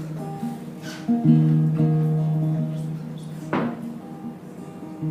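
Acoustic guitar playing the opening chords of a folk song, ringing notes with a fresh chord about a second in and again near the end.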